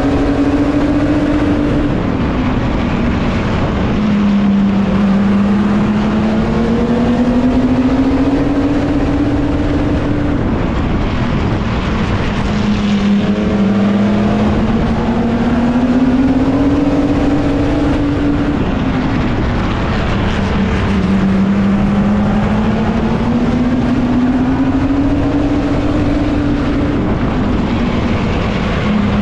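Racing mini truck engine heard from the truck's own roof at race speed. Its pitch climbs steadily for several seconds, then drops sharply as the driver lifts for a turn, three times over, lap after lap.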